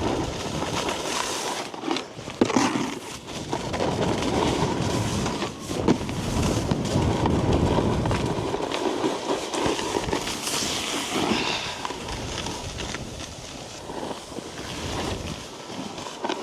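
A snowboard riding over packed snow, its base and edges scraping and hissing as the rider carves, mixed with wind buffeting the helmet-mounted camera's microphone. The scraping swells and fades with the turns.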